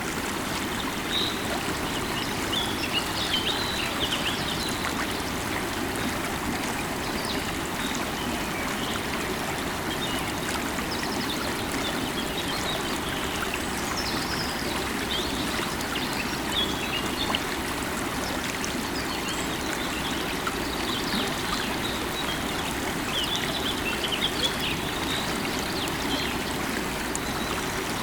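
River water running steadily, with birds chirping here and there.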